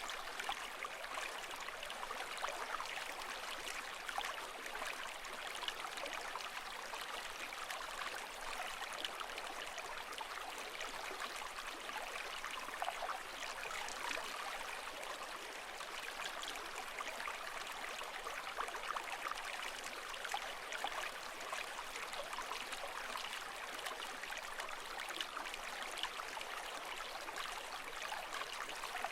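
Continuous running water, a steady babbling trickle with many small splashes and no rise and fall of waves.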